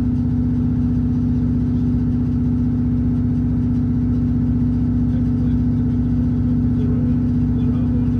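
A passenger train's diesel engine running steadily with a constant, unchanging hum.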